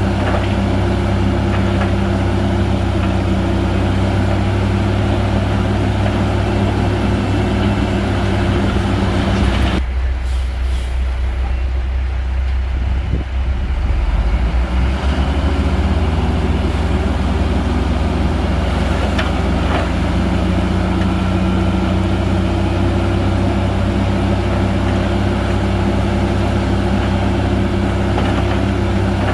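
Heavy bulldozer's diesel engine running steadily under work. About ten seconds in, the engine note drops and the higher clatter falls away for a few seconds, then it picks back up.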